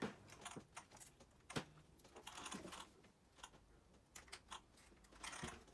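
Faint, irregular small clicks and brief scrapes of small RC truck suspension parts and tools being handled during assembly.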